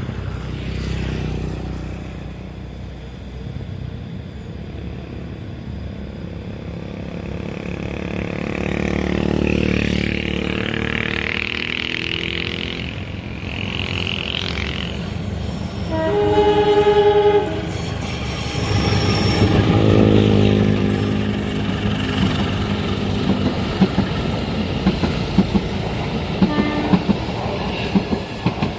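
A train passing: the locomotive comes up rumbling, sounds its horn in one blast of about a second and a half around the middle, and then the wagons' wheels clatter over the rail joints in quick regular clicks near the end.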